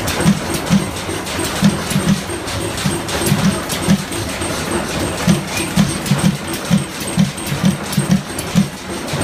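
Antique stationary internal-combustion engines running, with low exhaust beats about two to three a second and sharp clicking from the valve gear.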